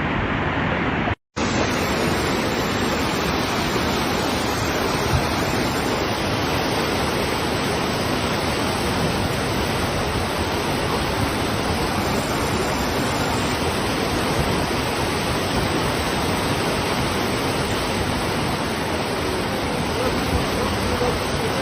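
Steady rushing of floodwater, broken by a brief dropout about a second in.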